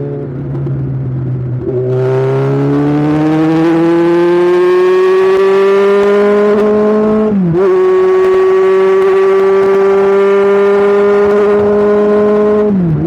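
Superbike engine accelerating, its pitch climbing steadily under load, broken by two quick gear changes, about seven seconds in and near the end, each a brief dip in pitch before it pulls on.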